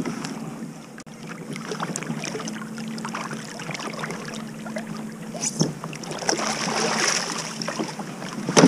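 Water splashing and dripping beside a kayak as a crab trotline is drawn up over the water, with scattered small clicks and splashes that grow busier in the second half and a sharp, louder splash or knock at the very end.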